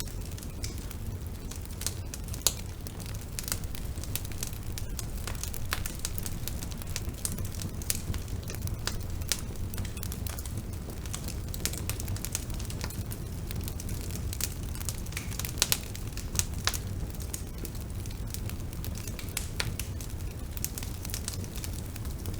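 Bonfire burning with a steady low rumble and constant irregular crackling, a few sharper pops standing out, one about two and a half seconds in and two close together past the middle.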